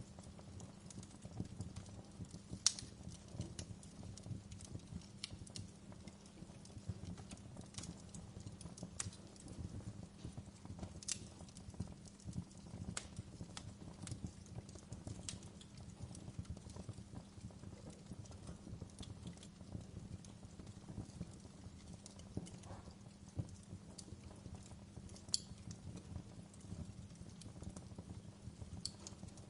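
Wood log fire burning in a fireplace: a steady low rumble of the flames with irregular sharp crackles and pops, a louder pop about three seconds in and another a few seconds before the end.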